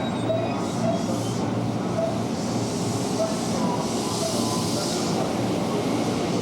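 Sōbu local line 205 series electric commuter train running, a steady rumble with bursts of hissing at about a second in and again from about two and a half to five seconds in.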